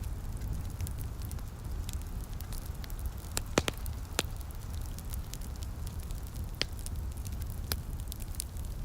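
Wood fire crackling steadily, with a handful of sharp pops, the loudest about three and a half seconds in, over a steady low rumble.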